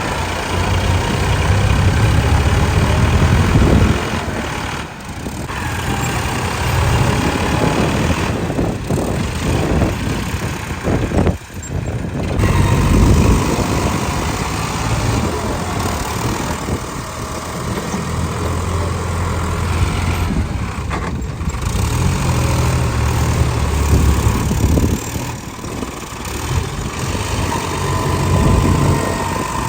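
Tractor diesel engines running under heavy load, revving up and easing off again and again with brief drops, as one tractor tows another that is stuck in mud.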